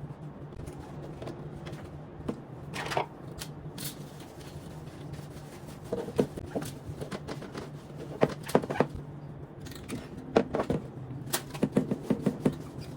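Scattered light clicks and knocks from plastic table-fan blades and guards being handled and scrubbed, coming in clusters in the second half, over a steady low hum.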